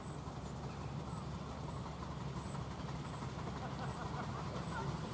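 Low steady rumble of an approaching miniature railway train, still out of sight, slowly growing louder.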